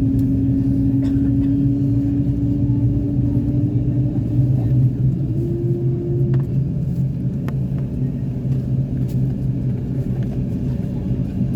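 Steady low drone of an Airbus A350-900 cabin, with a tone that rises slowly in pitch over the first half and steps up about six seconds in.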